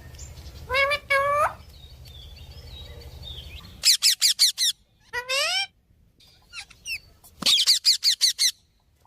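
Pet parrot calling: two harsh, voice-like calls about a second in, then quick runs of sharp, falling whistles around four and eight seconds in, with a rising call between them.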